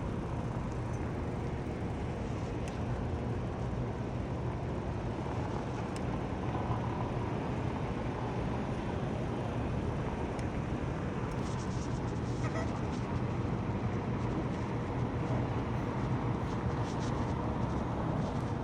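Steady street-traffic rumble, with vehicles running and passing, and a few faint clicks.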